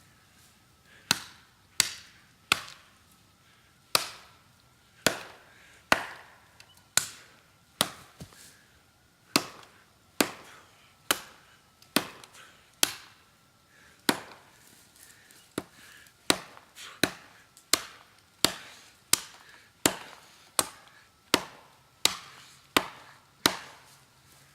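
A golok chopping into a standing dead tree, a sharp chop roughly once a second, the strokes coming a little faster near the end.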